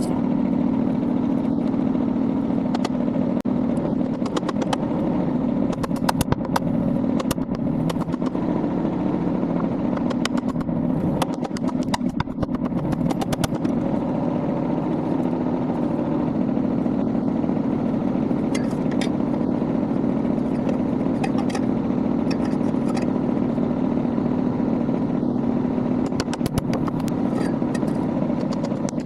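Kubota B21 tractor's diesel engine running steadily, with scattered sharp metallic clicks and clatter over it.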